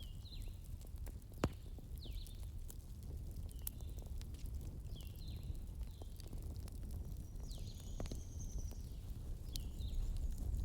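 Wood fire burning with a steady low rumble and scattered sharp crackles and pops, the loudest about a second and a half in. Short high chirps with a falling pitch recur about once a second over it.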